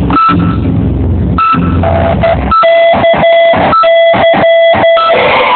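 A single pitched tone beeping on and off in a run of short blasts, over a low rumble in the first half.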